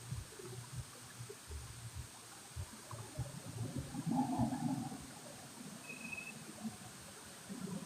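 Running water, with irregular low thuds and a louder patch about four seconds in.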